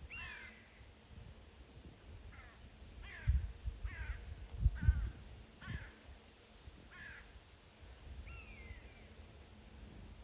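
Crows cawing again and again while squabbling with hawks, with two long falling cries, one near the start and one about eight seconds in. A few low thumps on the microphone around the middle are the loudest sounds.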